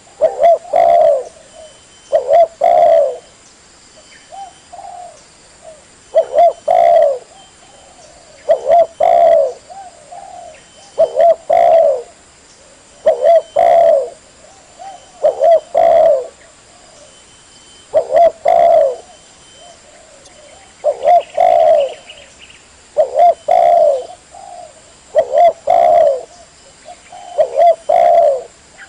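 Spotted dove cooing: a short low phrase of a few notes, repeated about every two seconds.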